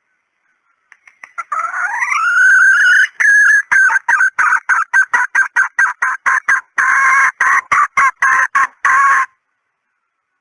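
Junglefowl hen calling, a decoy call used to lure junglefowl cocks: a few soft notes and a rising drawn-out note, then a fast run of short, evenly repeated clucks, about four a second, that stops abruptly.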